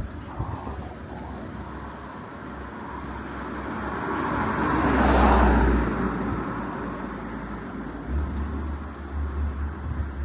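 A car passing by on the street, its road noise swelling to a peak about five seconds in and fading away, over steady traffic background.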